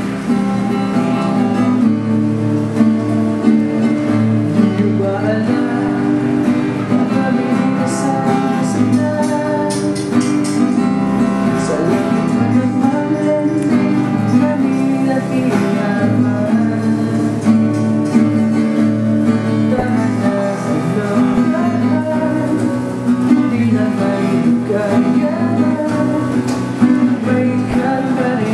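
Acoustic guitar strummed and picked, playing a song the player composed himself.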